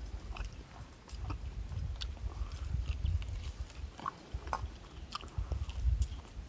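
A person biting and chewing roasted free-range chicken close to the microphone, with irregular crunchy clicks over a low rumble.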